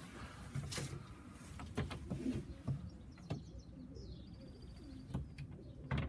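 Racing pigeons cooing softly in short low calls, with a few sharp knocks and a brief high chirp among them.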